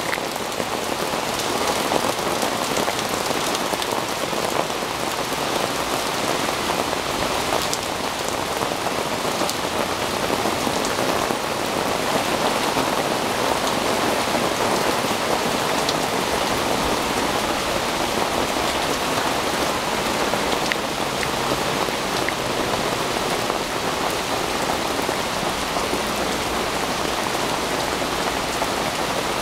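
Steady rain falling on leaves and a wooden deck: an even hiss with a few sharper drop ticks.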